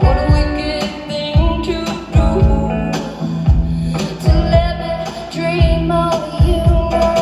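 Live band music: a woman singing over guitar with a steady beat.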